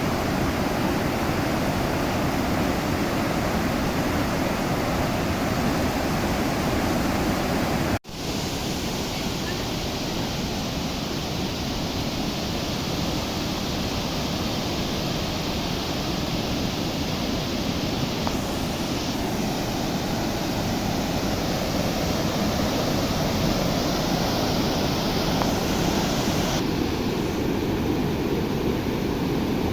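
Rushing water of a river in flood, a steady loud roar with no let-up, broken by a momentary dropout about eight seconds in.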